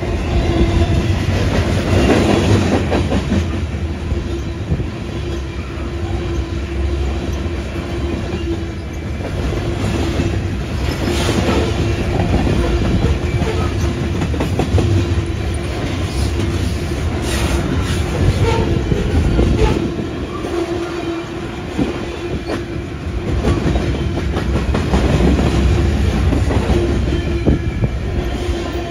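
CPKC freight train rolling past, its wheels clattering over the rail joints with a steady low tone running underneath.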